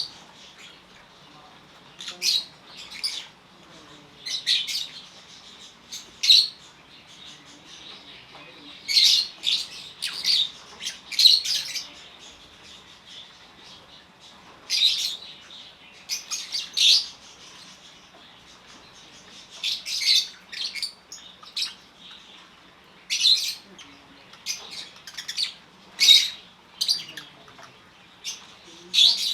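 Lovebirds calling: short, shrill chirps and squawks in irregular bursts, some coming in quick clusters of several calls.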